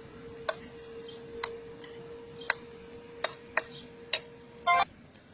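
Sharp clicks of a utensil tapping a dish, about six at uneven intervals, over a steady faint hum. The hum cuts off near the end just after a brief, louder ringing clink.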